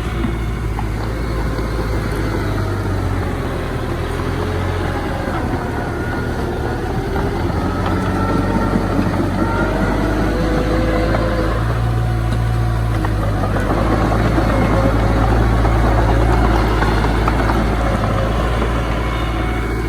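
Diesel engine of heavy earthmoving machinery running steadily as a low drone, growing somewhat louder about eight seconds in, with thin wavering whines above it.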